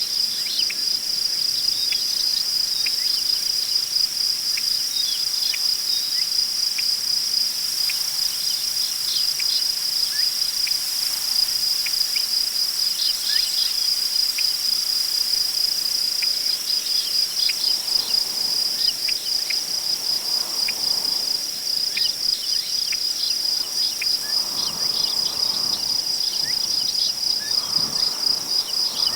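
Crickets chirping in a continuous fast, even trill, with scattered short high chirps over it. From about halfway through, soft gusts of wind rustle through tall prairie grass.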